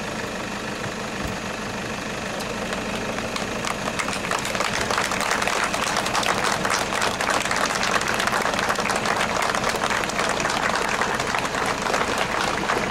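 Toyota SUV's engine idling with a steady low hum. About four seconds in, a denser crackling noise rises over it and stays.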